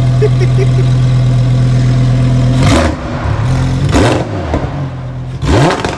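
Lamborghini Huracán STO's naturally aspirated V10 idling steadily, then revved in three quick throttle blips, the first about two and a half seconds in, the next a second or so later and the last near the end, each rising and falling in pitch before dropping back to a lower idle.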